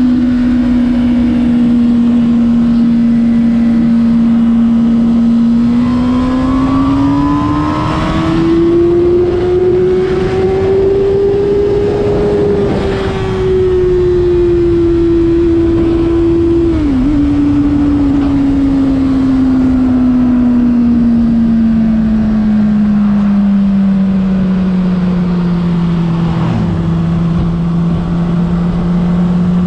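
Honda CBR600RR's inline-four engine running under way: the note holds steady, climbs in pitch for several seconds, then eases back with a brief dip about seventeen seconds in and settles gradually to a lower, steady note.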